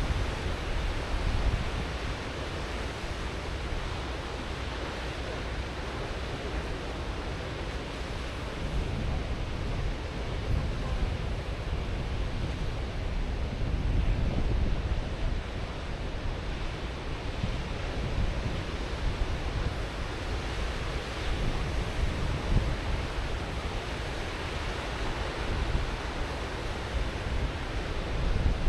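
Ocean surf washing in continuously, swelling a little now and then, with wind rumbling low on the microphone.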